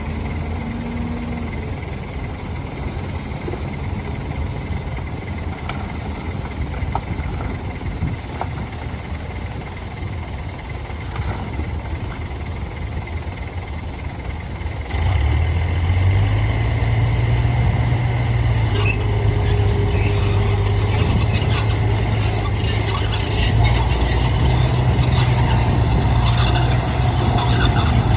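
Heavy diesel engine running steadily. About halfway through it gets suddenly louder with a strong low hum, as if taking on load, and scattered clicks and rattles follow.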